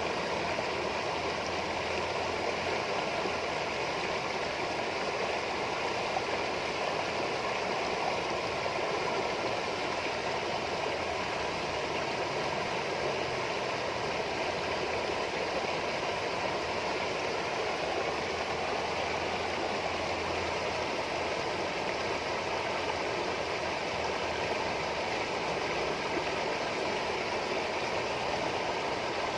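Water trickling and babbling steadily, like a small stream, in an even, unbroken rush.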